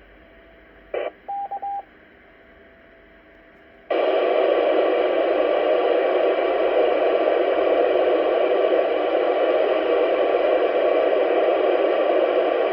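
Amateur radio transceiver receiving the repeater channel: a short squelch burst, three quick beeps of one pitch, then from about four seconds in a loud, steady hiss of FM radio static.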